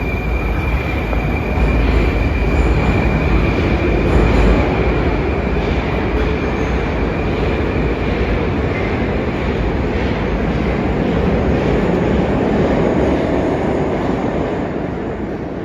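Moscow Metro 81-717.5/714.5M subway train running through the station: a steady rumble of wheels on rail, heaviest in the first few seconds, with a thin high tone that fades out about halfway and the overall sound easing off near the end.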